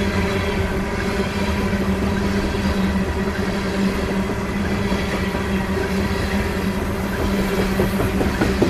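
Coal train hopper cars rolling past: a steady rumble of steel wheels on rail with a constant hum, and a few sharper wheel clicks near the end.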